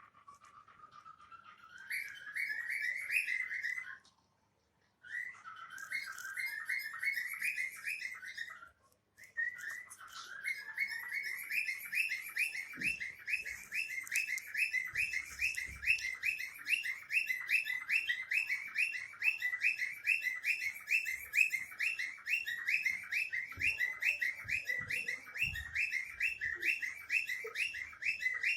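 Cockatiel singing: an opening rising whistle, then a long run of quick, repeated rising chirps, several a second. The sound drops out briefly twice in the first third.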